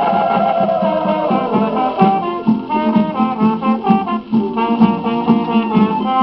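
A 1940s Brazilian carnival marcha played from a 78 rpm record by a small band: a wavering held note slides down over the first second or so, then quick short notes run over a steady beat. The sound is cut off in the treble, as on an old shellac disc.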